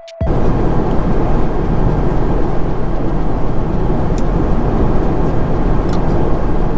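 Steady rushing cabin noise of a jet airliner in flight, the engine and airflow roar heard from inside the cabin. It starts abruptly just after the beginning as music cuts off, with a few faint ticks later on.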